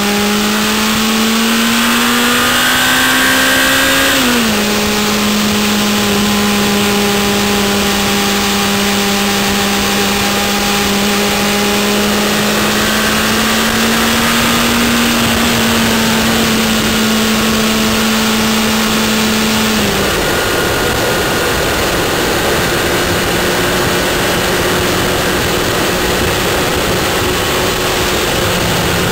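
Car engine heard from inside the cabin while driving, under a steady hiss of road and wind noise. Its note climbs, drops sharply about four seconds in as it changes up a gear, holds steady, and drops again about twenty seconds in.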